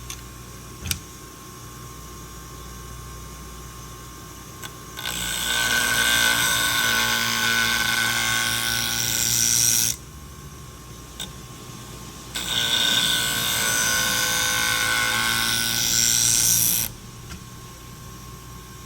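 Fiskars scissor blade ground against a spinning 240-grit diamond wheel on a Wolff Twice As Sharp sharpener: two long passes of hissing, whining grinding, about five seconds each, over the steady hum of the running machine. It is heavy grinding to take off a lot of metal and remove damage left by an earlier botched sharpening.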